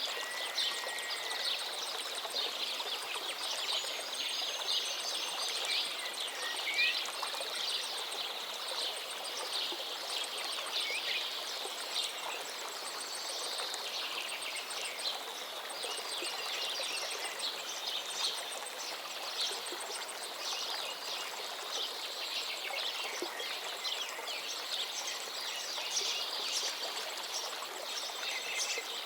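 A forest river flowing steadily, with songbirds chirping and whistling over it throughout.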